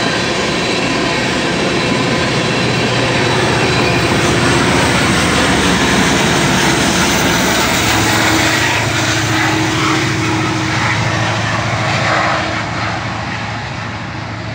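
Freight train of tank cars rolling past with steady wheel-on-rail noise. About 8 seconds in, two BNSF diesel-electric locomotives go by, adding a steady engine drone, which fades toward the end as the train moves away.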